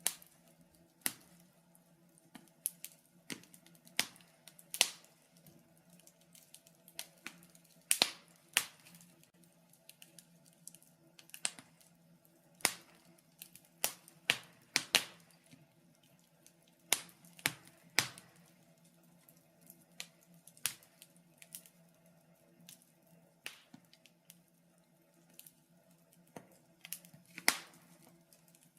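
Wood fire in a fireplace crackling, with irregular sharp pops and snaps, some much louder than others, over a faint steady hum.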